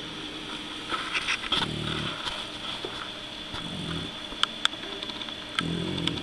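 Shar-Pei puppy snoring in its sleep: low, rattling snores about every two seconds, three in all. A couple of sharp clicks come in between.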